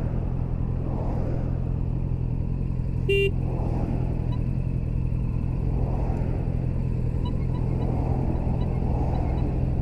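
Yamaha MT-07 motorcycle engine running steadily while riding, with wind rushing over the microphone. A short horn toot sounds once about three seconds in.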